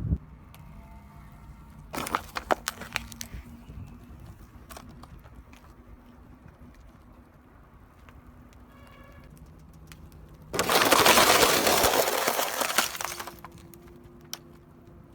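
Objects cracking and crunching as a car's tyre crushes them: a short run of sharp cracks about two seconds in, then a louder crunching burst lasting about three seconds.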